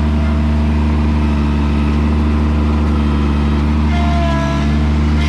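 Kubota BX2200 compact tractor's three-cylinder diesel engine running steadily under load in soft garden soil, where the driver fears getting stuck. About four seconds in, the engine note shifts and a higher wavering tone joins.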